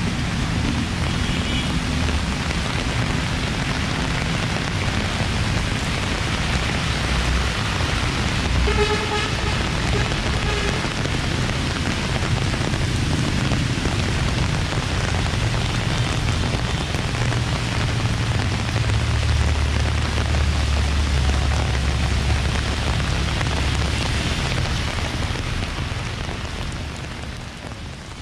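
Heavy rain pouring onto a wet street, a steady hiss, over the low rumble of car traffic on the flooded road. A short pitched sound stands out about nine seconds in. Everything fades out at the very end.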